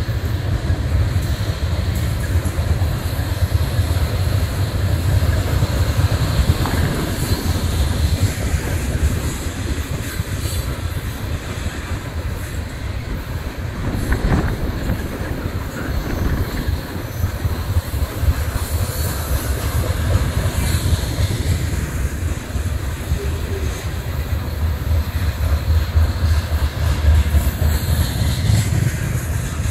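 Tank cars of a freight ethanol train rolling past close by: a continuous rumble of steel wheels on the rails with clickety-clack over the rail joints. There are a few faint high-pitched wheel squeals in the second half.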